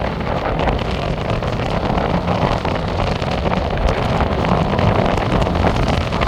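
Sea waves washing and breaking on the shore in a steady, loud rush, with wind rumbling on the microphone.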